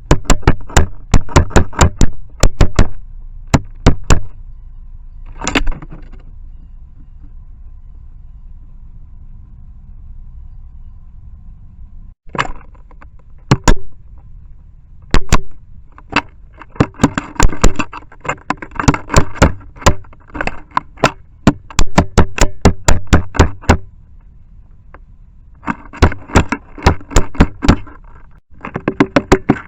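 Red-bellied woodpecker pecking directly on a trail camera's plastic housing: loud, sharp knocks in rapid runs, with pauses between runs and a quiet stretch of several seconds. The bird is drilling holes into the camera's motion sensors.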